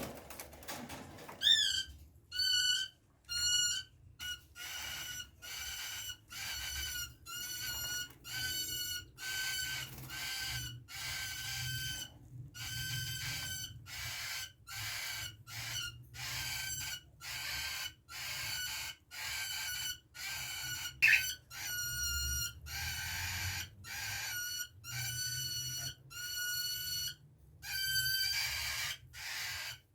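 Three-day-old cockatiel chick calling over and over, a steady run of short, high cheeps about two a second, the food-begging call of a nestling.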